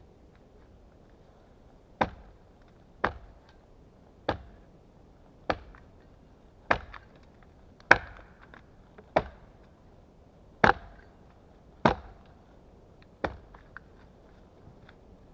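Small axe chopping wood in ten evenly paced, sharp blows, about one every 1.2 seconds, starting about two seconds in.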